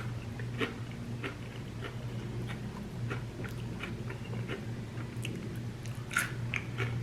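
Close-up chewing and crunching of cheese- and sour-cream-covered Hot Cheetos and chips, with irregular crisp crunches throughout. A steady low hum sits underneath.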